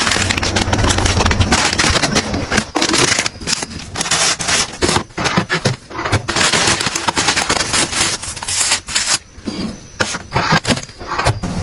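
Plastic packaging being handled and crinkled, a dense run of crackles and clicks with short pauses between handfuls.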